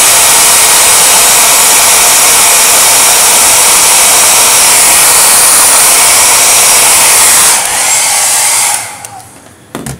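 Handheld hair dryer blowing on its high setting, a loud steady rush of air, then switched off about seven and a half seconds in and winding down over a second or so. A single sharp click near the end.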